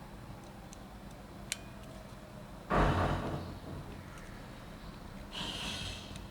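Handling noises from working on a disassembled DSLR camera: a small sharp click, then a louder thump and rustle about three seconds in, and a short hiss near the end.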